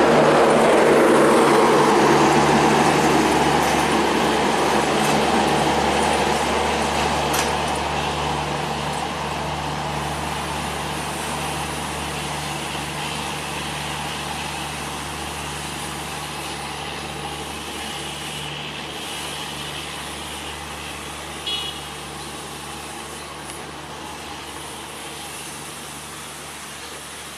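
A departing passenger train's coaches rolling away on the track, the running noise fading steadily as they recede. A steady low engine hum continues underneath.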